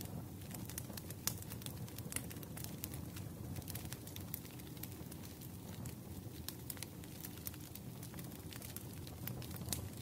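Wood fire crackling in a fireplace: a steady low rumble with frequent small pops and clicks, and two louder pops, one about a second in and one near the end.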